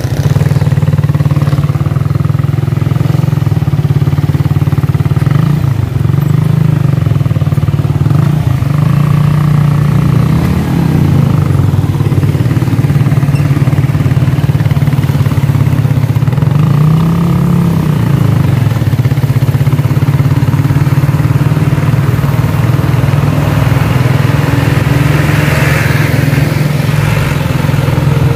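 Suzuki Raider 150 motorcycle engine running steadily under load while towing another motorcycle by rope, heard close up from the bike itself. The revs shift briefly a few times.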